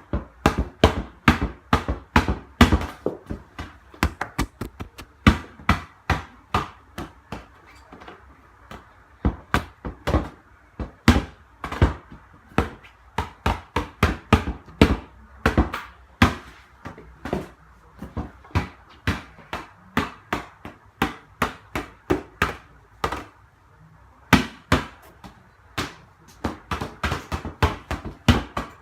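A ball bouncing repeatedly on a hard floor, about two bounces a second, kept going without a break, with uneven rhythm and strength from bounce to bounce.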